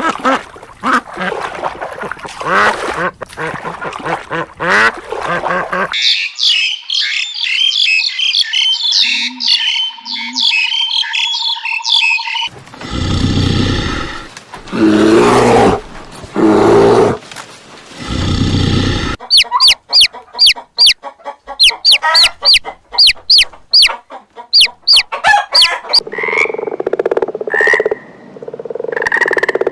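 A string of different animal calls, cut one after another. First pitched calls, then a stretch of high, rapid chirping, then a few loud, low calls, then a fast run of sharp clicking calls, then more calls near the end.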